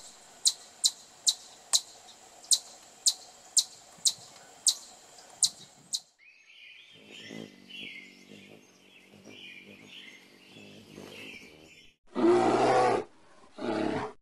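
A chipmunk giving sharp, high chip calls, about two a second, for several seconds. Then faint chirping from a hummingbird. Then a bear growling loudly twice, the first growl about a second long and the second shorter.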